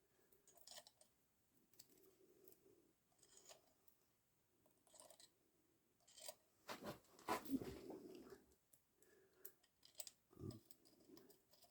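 Faint, scattered clicks and clinks of small metal parts being handled as clutch springs are fitted, with a louder bout of clicking about seven seconds in.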